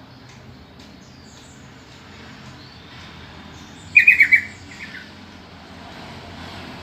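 Yellow-vented bulbul calling: a quick run of four loud, bubbly notes, each falling slightly in pitch, about four seconds in, then a softer pair of notes, over a steady background hiss.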